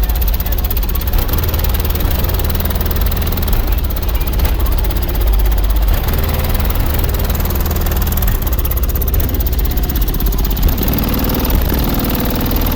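Loud, steady deep bass from 18-inch Sundown ZV5 subwoofers playing music at high power.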